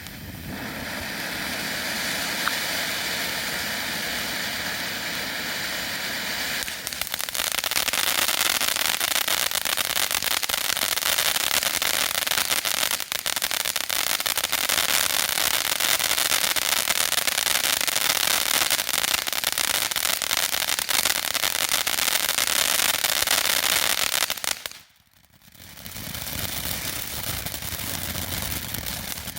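Dominator Hot Lips firework fountain burning: a steady hissing spray full of dense crackle that grows louder and thicker about seven seconds in. About 25 seconds in it cuts out briefly, then carries on more quietly.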